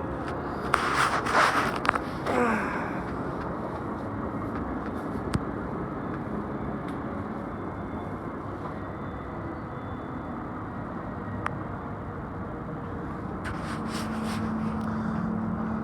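Steady rush of water from a fountain show, with a few short noisy bursts about a second in and again near the end.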